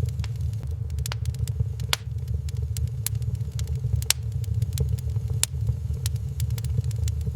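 Wood fire burning in a fireplace: a steady low rumble with sharp, irregular crackles and pops several times a second.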